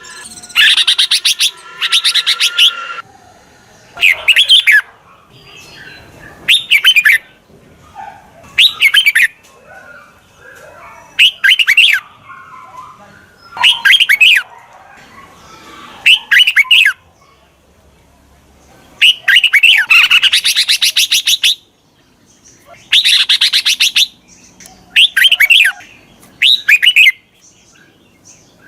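Red-whiskered bulbul song: short, loud phrases of quick notes repeated about every two seconds, a few of them longer. It is recorded decoy song, played to call wild bulbuls in and set captive ones singing.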